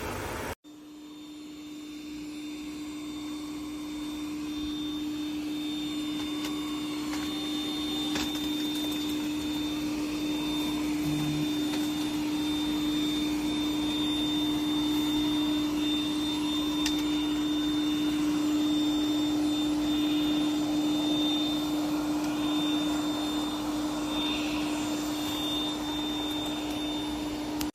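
ECOVACS DEEBOT N20 PRO PLUS robot vacuum's suction motor running steadily with an even hum and rushing air. It starts about half a second in and builds over the first few seconds.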